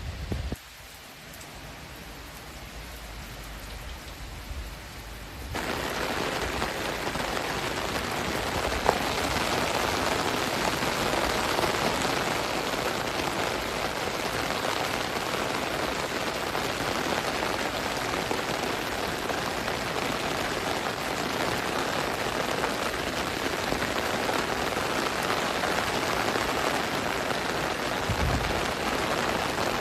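Heavy rain falling in a steady hiss. It is lighter for about the first five seconds, then turns abruptly louder and heavier and stays steady.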